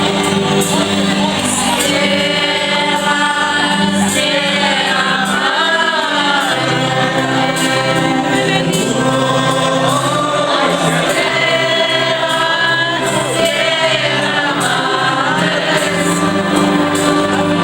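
Music with several voices singing together over a held accompaniment.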